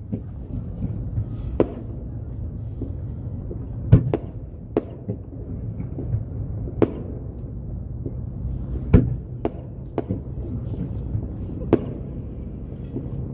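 Aerial fireworks shells bursting: about ten sharp bangs at uneven intervals over a steady low rumble.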